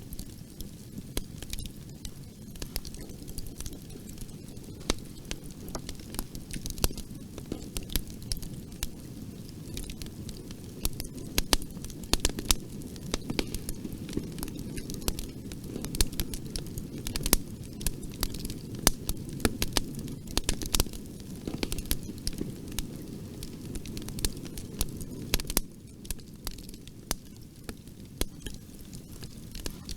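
Bonfire burning steadily, its wood crackling and popping in frequent irregular snaps over a low rumble of flame.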